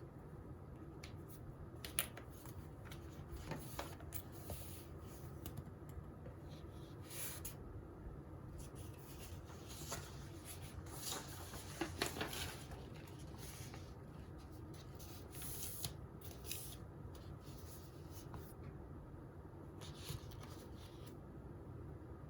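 Faint desk sounds of someone studying: scattered pen-on-paper scratches, paper rustles and small clicks, the sharpest click about two seconds in and a busier patch of rustling around the middle, over a steady low room hum.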